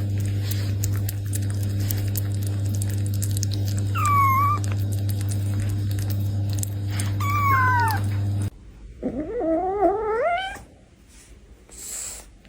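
Cat meowing: two short meows, falling in pitch, about four and seven seconds in over a steady low hum. After the hum cuts off, a longer wavering meow rises in pitch.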